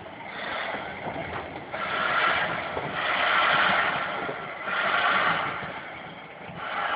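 Steam locomotive exhaust working slowly: about five long hissing chuffs, roughly a second and a half apart.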